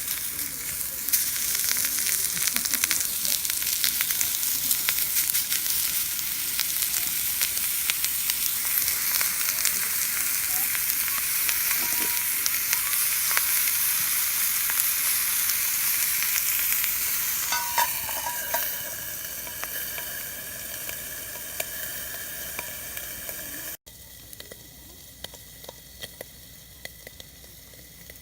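Food sizzling and frying in a grill pan over a campfire: a steady hiss with small pops that eases off about two-thirds of the way through. After a sudden cut near the end it turns to a quieter hiss with scattered crackles.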